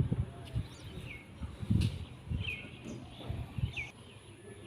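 A small bird repeating a short chirp about once a second, over an uneven low rumble that is stronger in the first half.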